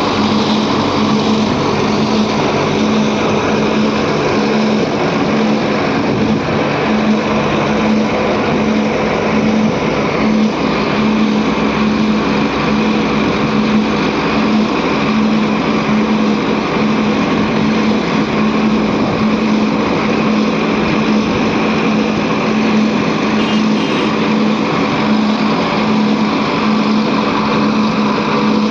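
Heavy diesel engine of earth-moving machinery running steadily, a loud drone at an even pitch.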